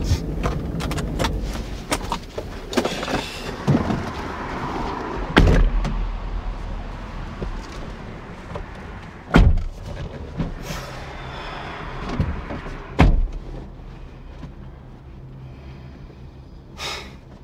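Four heavy door-like thumps, roughly four seconds apart, over a steady low mechanical hum that slowly fades.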